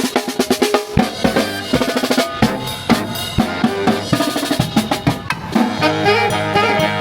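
Band music led by a drum kit playing a busy pattern of snare and bass drum hits, with sustained horn notes coming in near the end.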